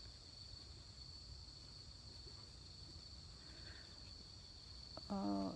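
Night insects trilling steadily in one unbroken high-pitched drone. A woman's voice starts near the end.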